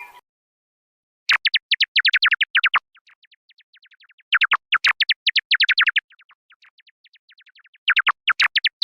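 Synthesized music: three bursts of rapid repeated high notes, about ten a second, each trailed by fainter echoing repeats.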